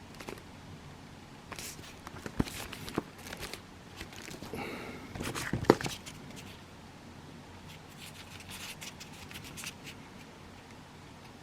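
Fireworks and their cardboard packaging being handled: rustling and scraping with a few light knocks, the loudest about six seconds in.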